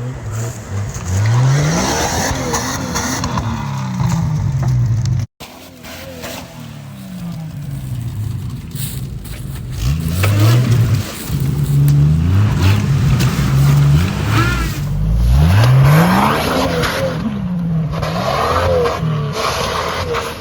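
Jeep Cherokee XJ engine revved hard several times, its pitch climbing and falling again and again. The sound drops out briefly about five seconds in.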